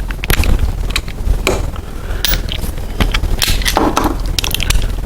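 Irregular metal clicks and clinks from a ratchet and 16mm socket working on the main bearing cap bolts of a Chevy 350 V8 block, over a steady low hum.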